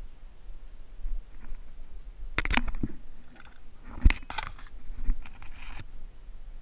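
A few scattered rustles and knocks, with one sharp knock about four seconds in.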